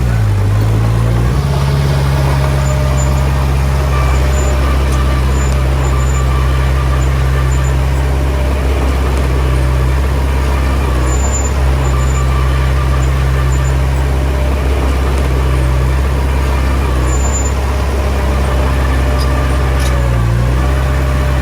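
Heavy diesel engine of earthmoving machinery running steadily at working revs. Its note dips briefly at the very start and again near the end as the revs change.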